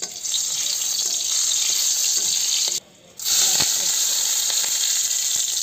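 Food frying in hot oil in a pan: a loud, steady sizzle that starts suddenly, breaks off briefly just before halfway, then carries on.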